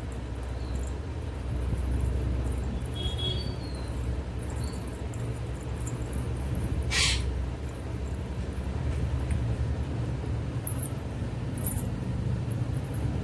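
Four pairs of silver anklets (payal) with small bells jingling faintly and unevenly as the feet move, with one louder jingle about seven seconds in, over a steady low hum.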